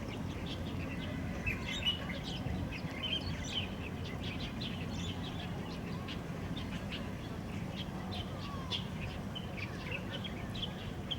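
Many short bird chirps and twitters overlapping throughout, over a steady low hum.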